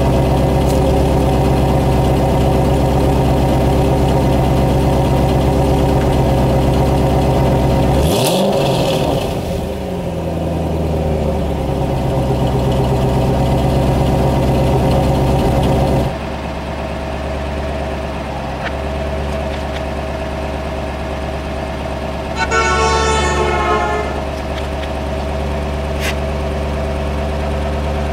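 Hot rod engines at a car show: one idles steadily and is revved once about eight seconds in, its pitch climbing and falling back to idle. After an abrupt change partway through, a different engine idles, and a car horn sounds for about a second and a half near the end.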